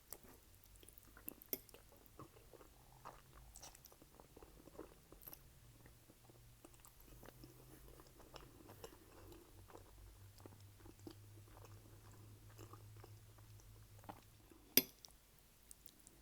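Close-miked chewing of spaghetti and garlic bread: irregular wet mouth smacks and small clicks, with one sharp click near the end.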